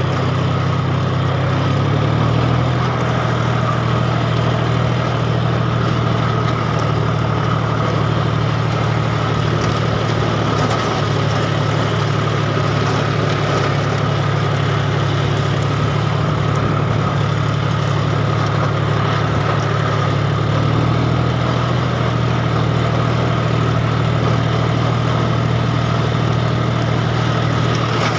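John Deere tractor's diesel engine running steadily, its pitch shifting slightly about two seconds in and again past the twenty-second mark, with a steady high whine alongside.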